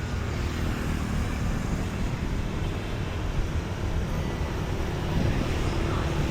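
Steady city street traffic noise, an even wash of passing vehicles with no single event standing out.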